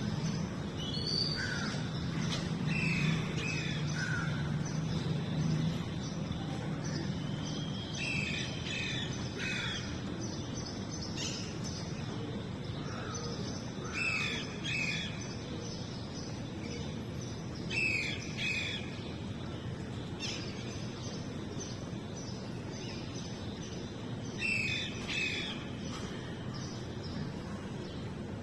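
A bird calling in short groups of two or three chirping notes that come back every few seconds, over a steady low background hum.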